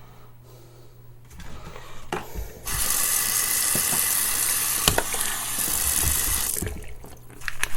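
Water tap running into a sink, turned on about two and a half seconds in and shut off about four seconds later, with a few knocks of things being handled before it starts. It is water drawn to wet shaving soap and build a lather.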